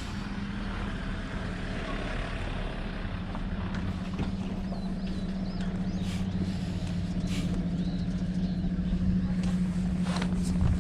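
A motor vehicle's engine running steadily as a low hum that grows gradually louder, with a few faint high chirps partway through.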